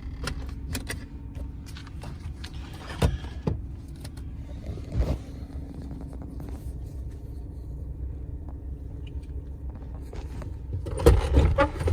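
A motor vehicle idling with a steady low hum, broken by a few sharp knocks about three and five seconds in. Louder rumbling and handling noise start near the end.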